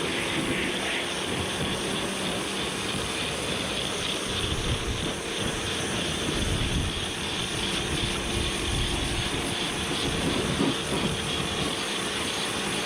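Kärcher pressure washer running steadily, its motor and pump droning under the hiss of the water jet.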